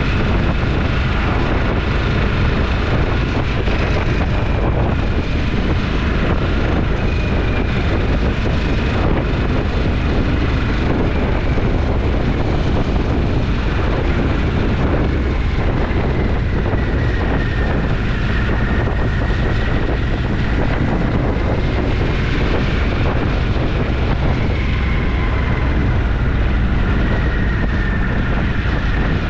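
Twin-cylinder motorcycle engine running at steady road speed, with heavy wind buffeting on the microphone and a faint whine that drifts slowly up and down in pitch.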